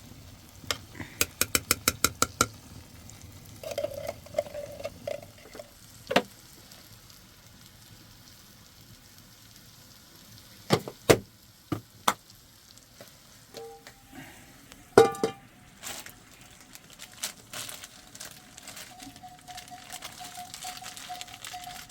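Metal cookware being handled: a quick run of about ten ringing metallic clinks, like a utensil tapping a pot, then a few scattered sharp knocks and clanks of pots and lids. A faint steady tone comes in near the end.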